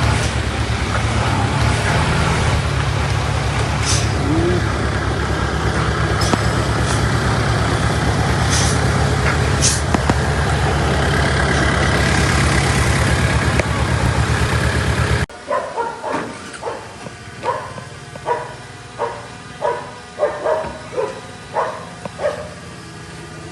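Heavy diesel machinery engine running steadily, with a few sharp metallic clicks. About fifteen seconds in the sound cuts off abruptly to a quieter stretch with a run of short, sharp, pitched sounds about twice a second.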